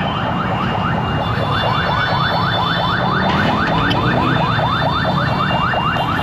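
An electronic alarm chirping rapidly, a short rising sweep repeated about five or six times a second, over a steady rumble of street traffic.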